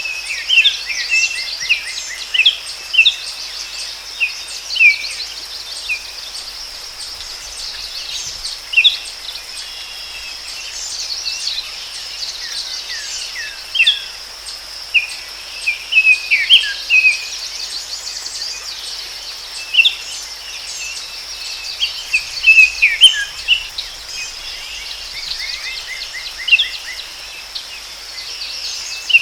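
Forest ambience: several birds chirping and trilling in many short calls over a steady high-pitched insect drone.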